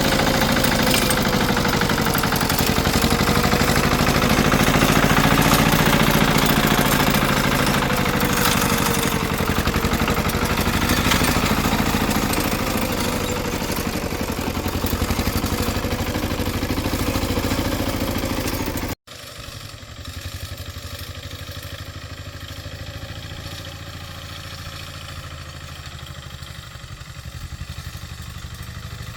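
A small farm machine's engine running steadily, its pitch wavering slightly up and down. About two-thirds of the way through, the sound drops off abruptly and the engine carries on, fainter.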